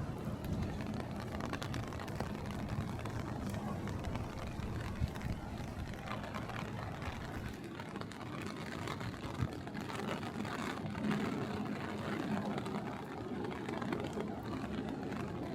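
Steady city street noise, mostly traffic rumble, with a few faint clicks and knocks.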